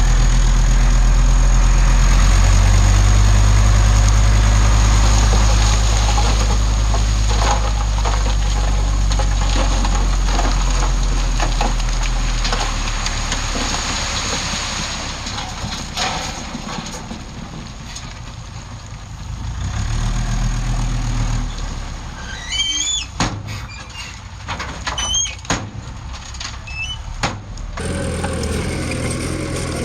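Heavy diesel earthmoving engine running loud and steady, then easing off after about twelve seconds and swelling again briefly near two-thirds of the way in. Sharp knocks and short squeaks come in a cluster toward the end.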